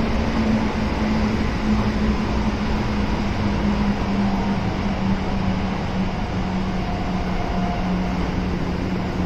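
Kintetsu 7000 series electric train running between stations, heard from inside the car: a steady rumble of wheels on track with the hum of its early Hitachi GTO-VVVF traction equipment, whose tone drops slightly in pitch about halfway through.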